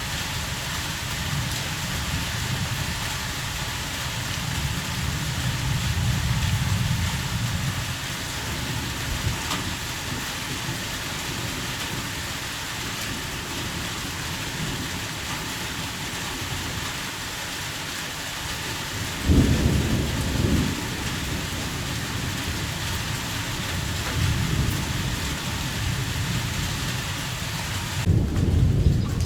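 Heavy rain falling in a steady hiss, with low rumbles of thunder beneath it. A sudden, louder rumble comes about two-thirds of the way in. Near the end the rain hiss thins and a loud low rumble takes over.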